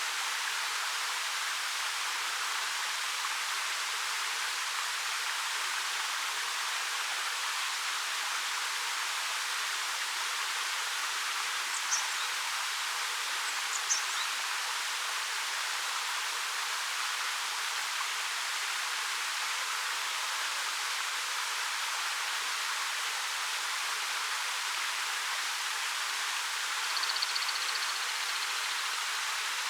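A waterfall of about 13 m pouring over rock, a steady, even rush of falling water. Two brief high chirps sound about twelve and fourteen seconds in, and a short high call near the end.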